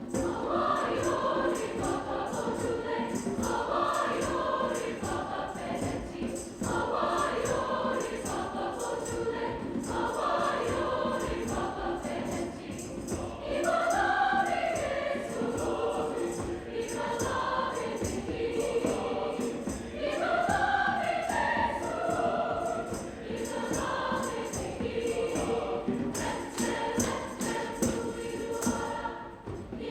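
High school choir singing.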